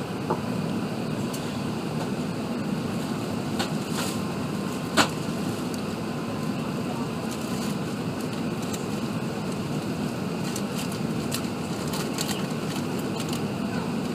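Steady low rumble inside the cabin of an Airbus A380 with its engines running on the ground before take-off, with a few brief clicks, the loudest about five seconds in.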